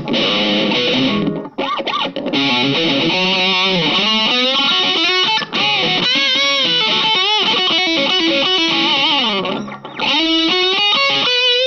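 Electric guitar through a Nux MG200 modelling pedal on a high-gain distorted patch, playing sustained notes with bends and vibrato. The playing breaks off briefly about a second and a half in and again about ten seconds in.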